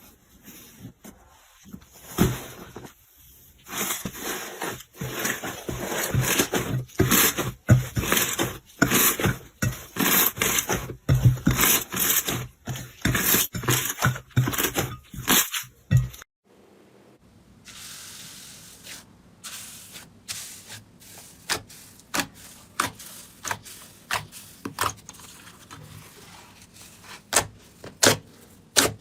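Slime being squished and played with, making dense sticky crackles and pops. About 16 seconds in it cuts to a quieter stretch of sparser clicks and pops.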